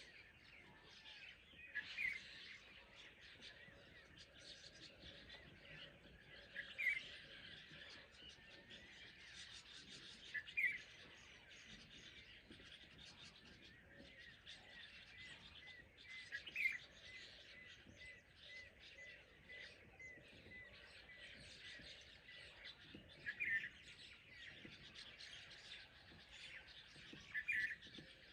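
Dawn chorus of many birds chirping together in grassland forest. One louder short call rings out about every four to six seconds. Around the middle, a run of evenly repeated notes joins in for several seconds.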